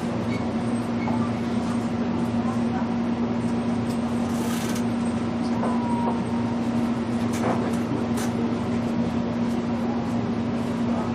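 Steady interior hum of a JR Kyushu BEC819 series battery-electric train car, with a constant low electrical tone over even background noise and a few faint clicks.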